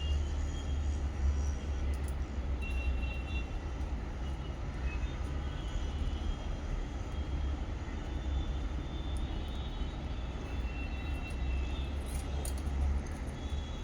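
A steady low rumble throughout, with faint, brief high bird chirps every few seconds.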